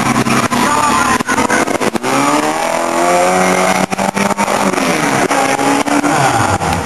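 Car engine revving, its note climbing about two seconds in and falling back near the end, with frequent short clicks over it.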